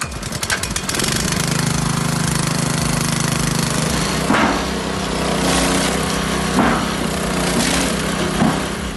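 A motor-driven wood-processing machine running loudly with a steady hum and a dense rattle. Sharp cracks break through about four and a half, six and a half and eight and a half seconds in.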